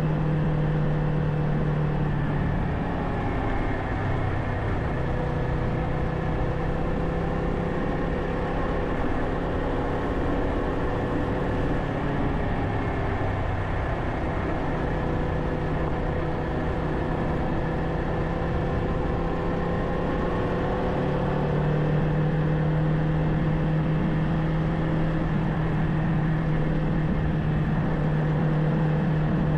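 Kawasaki Ninja 500's parallel-twin engine running while riding at a steady speed, with wind and road noise. The engine note holds steady with small slow rises and falls in pitch.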